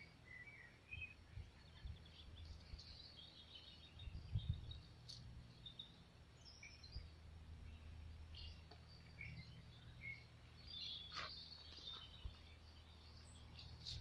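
Faint birdsong: scattered short, high chirps from garden birds over a low steady rumble, with a couple of soft knocks.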